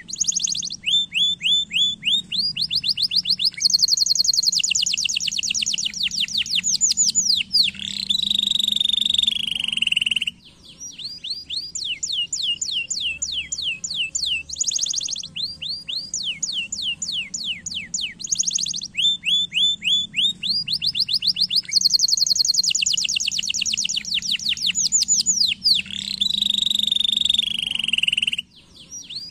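Domestic canary singing: fast trills of repeated high whistled notes, each trill at a different pitch, with down-slurred notes and a long rolling phrase. The song breaks off briefly about ten seconds in and again near the end, and the same run of trills plays twice.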